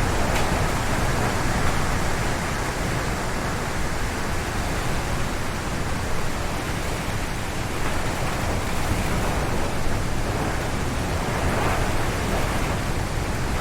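Strong wind gusting through forest trees, a continuous loud rush of air that swells slightly about a second in and again near the end.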